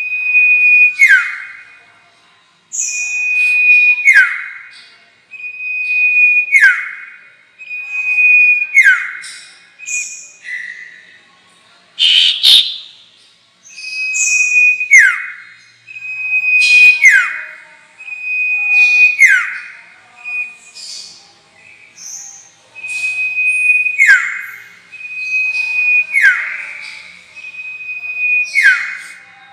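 Sirtu songbird call, played as a lure: one phrase repeated about every two seconds, a held high whistle that drops into a quick downward slur, with sharp high ticks between the phrases. A louder, harsher note comes about midway.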